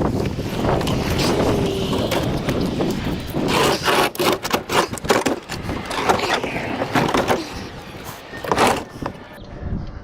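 A heavy scrap appliance scraping and knocking as it is pushed and slid into a truck bed, in a run of irregular grinding scrapes and bumps.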